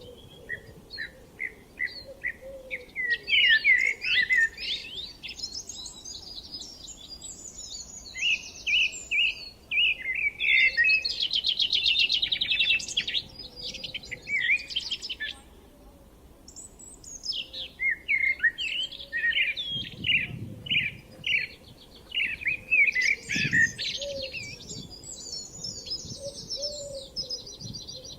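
Songbirds singing in repeated phrases of quick chirps and trills, with short pauses between the phrases.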